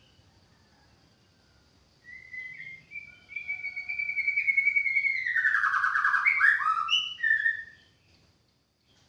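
White-rumped shama singing: a run of clear whistled notes that slide up and down, starting about two seconds in and ending near the end, loudest in its last, quicker notes.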